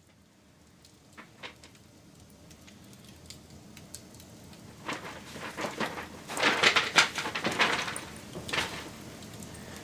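Wood fire crackling: scattered pops at first, then a dense run of loud crackles and snaps from about five to nine seconds in.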